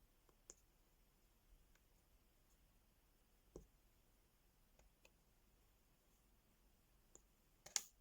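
Faint, sparse clicks and taps of small plastic diamond-painting pieces, the pen and rhinestones tapping onto a sticker sheet, with the loudest clicks near the end.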